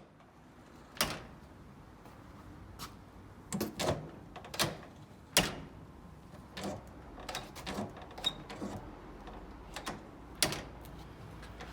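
Front-door latch and handle clicking and clacking a dozen or so times at irregular intervals: metal latch parts snapping and knocking.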